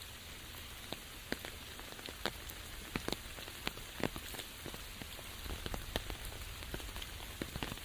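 Rain falling with a steady hiss, and frequent sharp drops striking close by, scattered irregularly.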